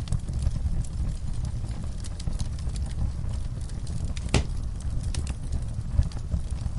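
Wood fire in a fireplace burning with a steady low rumble and scattered crackles and pops, one sharper pop about four seconds in.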